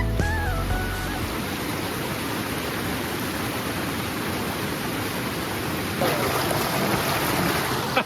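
Forest stream flowing with a steady rush of water, as the last notes of guitar music fade out in the first second.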